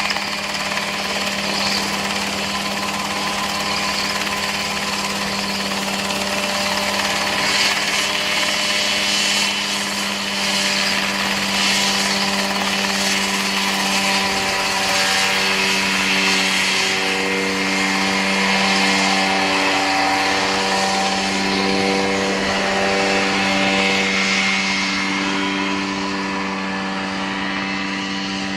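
Homemade ultralight helicopter running, a steady engine drone with a constant low hum. From about halfway through, its higher tones shift up and down a little as the engine speed wavers.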